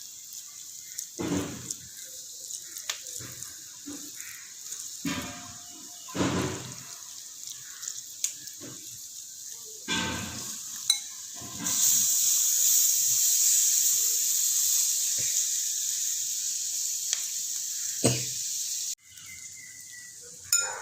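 Spiced onion masala sizzling in a kadai, with dull knocks and scrapes of a spatula as crumbled boiled chicken is added and stirred in. The sizzle grows much louder a little past the middle, then cuts off abruptly near the end.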